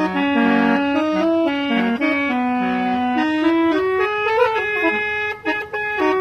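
Musical car horn ('kalason minang') playing a Minang-style melody in reedy, accordion-like tones, stepping from note to note and sometimes sounding two notes together.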